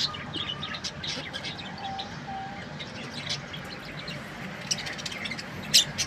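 Small birds chirping in short, scattered calls that come thicker near the end.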